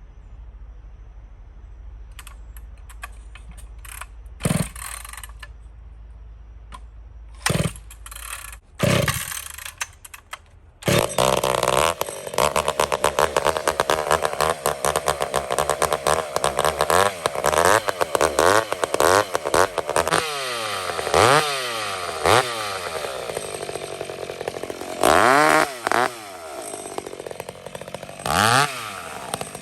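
Modified McCulloch 850 chainsaw being pull-started without the choke. After a few short pulls it catches about eleven seconds in and runs, and it is blipped up and down repeatedly, with several loud revs near the end.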